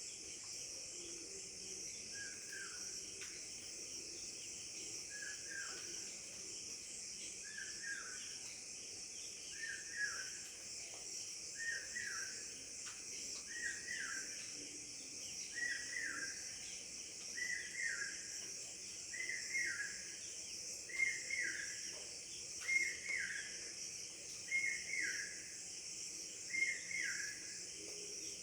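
A steady high chorus of crickets, with one bird repeating a short falling call about every two seconds, getting louder toward the end.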